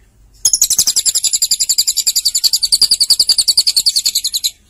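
Lovebird singing a long, rapid trill of high, evenly repeated notes. It starts about half a second in, lasts about four seconds, and stops shortly before the end.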